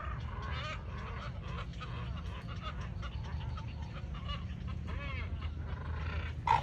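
Many birds calling over one another in a dense chorus of short calls, with one louder call near the end. A steady low rumble runs underneath.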